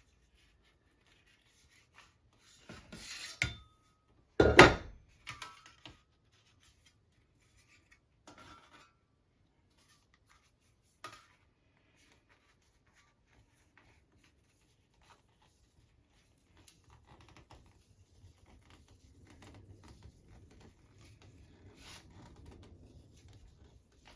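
Thin soft aluminum sheet being bent and rolled into a curve by hand: scattered crinkles and taps of the metal, with one sharp clank about four and a half seconds in. Near the end, soft steady rubbing.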